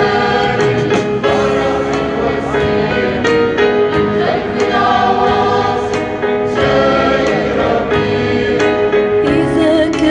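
Church choir singing an Arabic hymn, voices held together in long sustained lines over a steady accompaniment.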